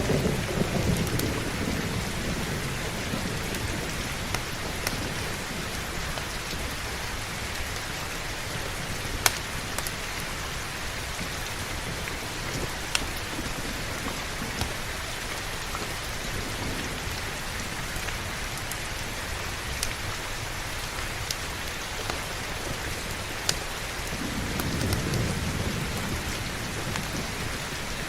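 Steady heavy rain with a low thunder rumble fading just at the start and another rolling in about three-quarters of the way through. A few sharp, isolated pops of fireplace crackle stand out over the rain, the loudest about a third of the way in.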